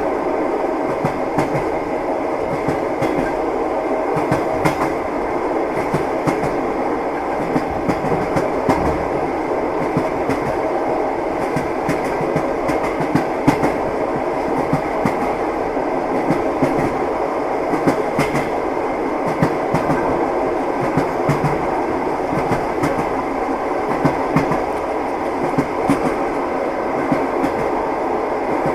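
Train wheels clattering on the rails of a moving train: a steady rumble with many irregular short clicks and knocks throughout.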